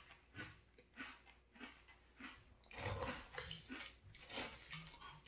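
Mouth-close chewing of crunchy frosted flakes in milk, a crunch a little under twice a second. About three seconds in, a metal spoon scrapes and scoops through the flakes in the bowl, with a few light clinks.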